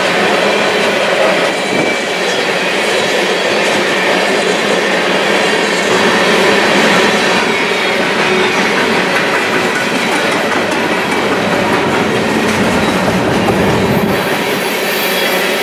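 A freight train of covered hopper cars rolling past close by: a steady, loud noise of steel wheels running on the rails.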